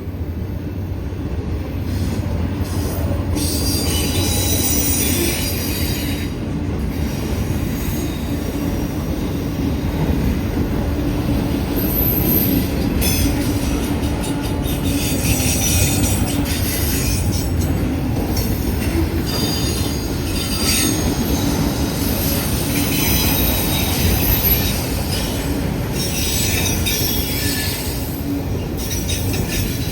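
Freight train of auto racks and mixed freight cars rolling past: a steady low rumble of wheels on rail, with high-pitched wheel squeal rising and fading in stretches.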